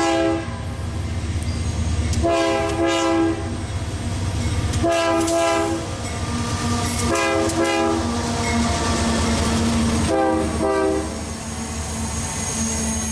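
Diesel freight locomotive sounding its multi-chime air horn in about five separate blasts, some long and some shorter, as an intermodal train passes. Under the horn runs the steady low rumble of the engines and the rolling train.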